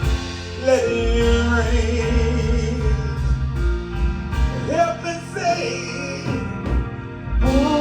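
Gospel worship song: a voice holding and sliding between long sung notes over instrumental accompaniment with sustained bass notes.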